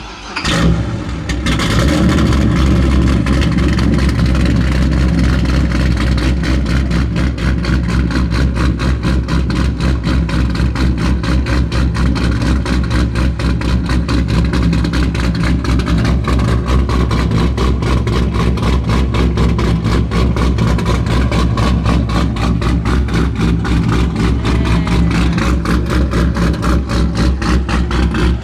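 C6 Corvette V8, fitted with swapped exhaust manifolds, starting and settling into a loud, steady idle with an even rapid pulse.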